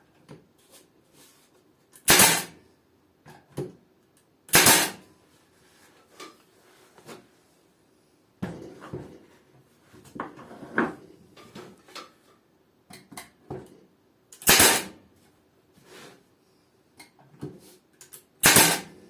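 Brad nailer firing four single shots, driving brad nails into the wood of the rack's joints. Between the shots come quieter knocks and rustles of the wooden pieces being handled and positioned.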